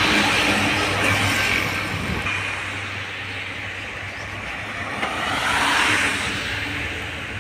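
Road traffic passing: an engine hum fades over the first two seconds, then another vehicle rushes past, loudest about six seconds in.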